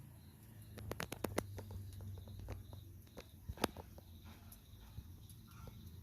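A quick run of sharp clicks and taps about a second in, then scattered lighter clicks with one louder click near the middle, over a low steady hum.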